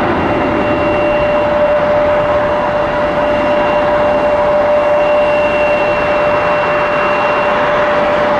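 Airbus A320-200 jet engines running at takeoff power during its departure roll and climb: a loud, steady roar with a steady whine held through it.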